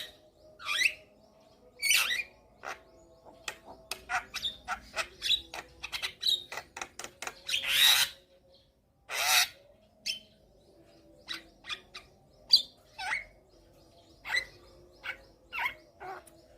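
Javan myna calling: a quick, uneven string of short whistles and clicks, broken by harsh, grating squawks, the longest about eight and nine seconds in.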